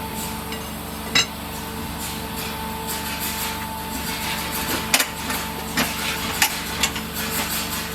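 Steady hum of a running workshop machine, such as a forge blower or motor, with sharp knocks on metal: one about a second in and several more between about five and seven seconds in.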